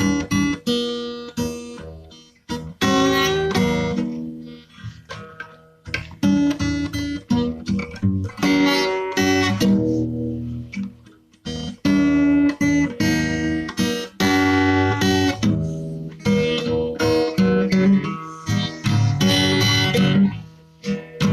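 Acoustic guitar playing: plucked and strummed chords that ring out and fade, broken by short pauses between phrases.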